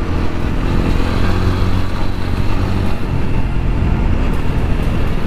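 Motorcycle running at a steady cruise, a constant engine hum under road noise.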